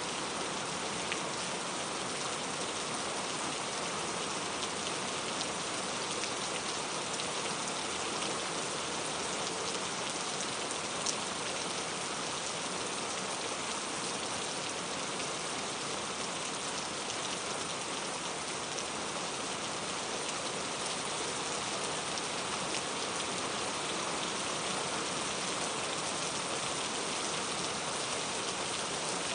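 Steady rain falling, an even hiss of countless drops with a few sharper individual drop ticks, one standing out about eleven seconds in.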